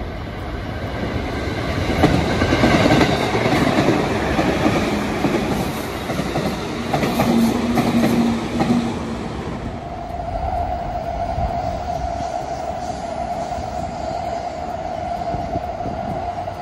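A train running past on the rails, its rolling noise swelling in and loudest in the first half; after about ten seconds a steady whine holds under the quieter running noise.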